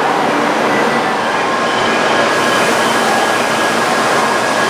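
Steady train noise on a Shinkansen platform: a loud, even rushing hum with faint high steady tones, growing a little brighter about two seconds in.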